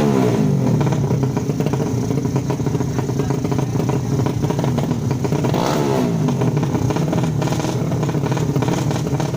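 155 cc drag-racing motorcycle engines running hard at high revs. About six seconds in, one engine's pitch falls steeply as it passes or backs off.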